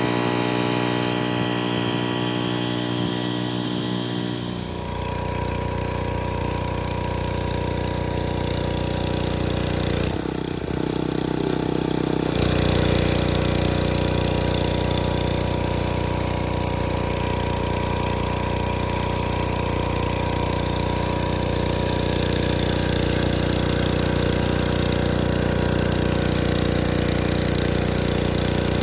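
Gas-engine pressure washer running steadily with the hiss of high-pressure water spraying. About five seconds in the sound grows fuller as the spray comes on. It drops briefly around ten seconds and picks up again about two seconds later.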